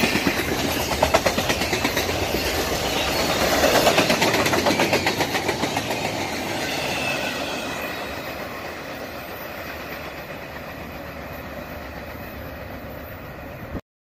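The cars of a Union Pacific intermodal freight train, flatcars carrying highway trailers and double-stacked containers, rolling past with a rapid clatter of wheels on the rails. The clatter fades steadily as the end of the train moves away, then cuts off suddenly near the end.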